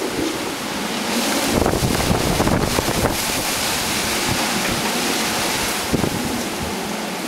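Typhoon wind gusting with driving rain, a stronger gust swelling about a second in and easing after a couple of seconds, the wind buffeting the microphone.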